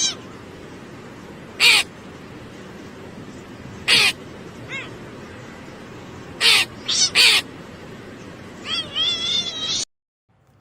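A pet animal giving short, loud pitched calls every second or two, six or so in all, then a quicker warbling run of calls near the end that cuts off abruptly.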